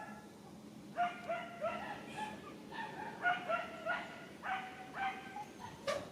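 A baby monkey's repeated short, high whimpering cries, about two a second from a second in: distress calls of an infant denied the nipple by its mother. A sharp click near the end.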